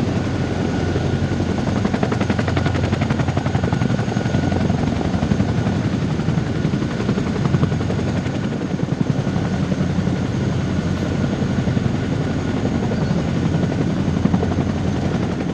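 Helicopter running close by: a steady, rapid beat of rotor blades with a thin high turbine whine over it.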